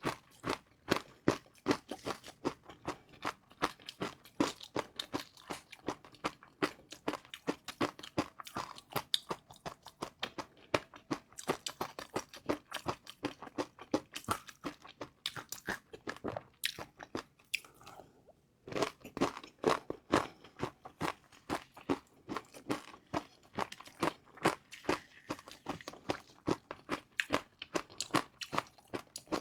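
Close-up crunching and chewing of crispy fried noodles, a rapid run of crackly crunches that pauses briefly about two-thirds of the way through and then carries on.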